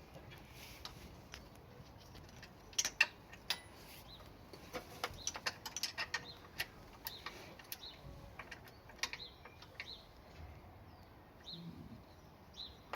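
Scattered light metallic clicks and knocks from tools and engine parts as a motorcycle engine is worked into its frame, with a louder pair of knocks about three seconds in and faint short high chirps now and then.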